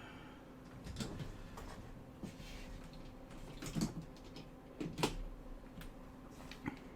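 A few light clicks and taps of a tool against a game console's circuit board during soldering work, scattered over several seconds, with a faint steady hum underneath.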